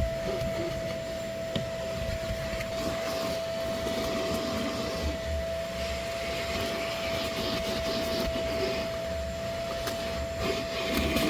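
A vacuum motor running steadily with a constant whine, its nozzle rubbing and knocking against the truck's interior surfaces.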